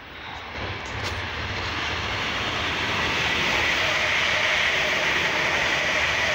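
Electric passenger train passing beneath at speed: a rumble and rushing hiss from wheels on rail that build up over the first three seconds and then hold steady and loud.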